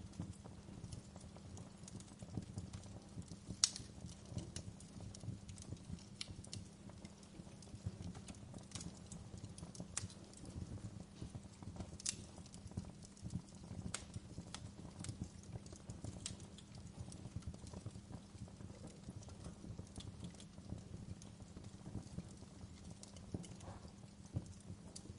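Wood fire burning, a steady low rumble of flames under irregular sharp crackles and pops, a few louder snaps among them.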